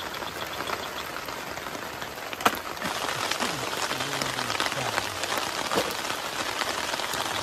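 Heavy rain falling steadily, with many separate drops striking close to the microphone. A single sharp knock sounds about two and a half seconds in.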